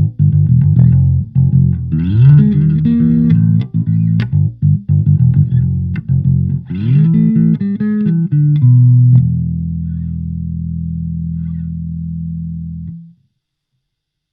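Electric bass played through a Fender Rumble 25 combo amp: a riff of plucked low notes with slides up in pitch, ending on one long held note that rings for about four seconds and then cuts off abruptly.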